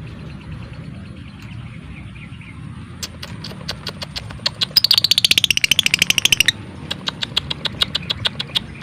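Lovebird 'ngetik' call: sharp high clicks that quicken into a dense rattling trill of about twenty clicks a second lasting under two seconds, then slow back to spaced single clicks.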